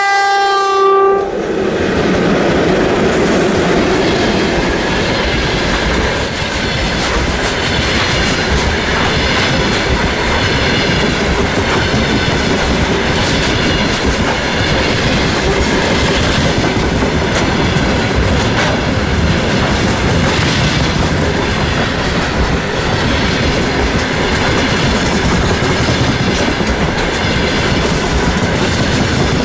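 A 2ES4K electric locomotive's horn sounds once for about a second at the start, then the locomotive and its freight train of open wagons roll past, with a steady heavy rumble of wheels on rails and repeated clacks.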